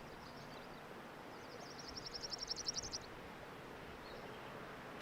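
A songbird singing a fast trill of rapid, evenly spaced high notes, about a second and a half long, starting a little over a second in, over faint outdoor background hiss.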